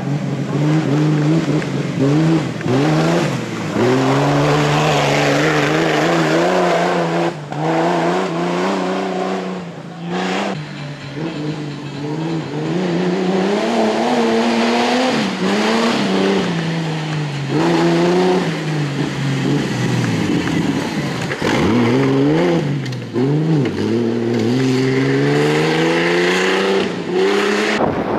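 Off-road race vehicle engines revving hard, pitch repeatedly climbing and dropping as they accelerate and shift. The sound breaks off suddenly a few times.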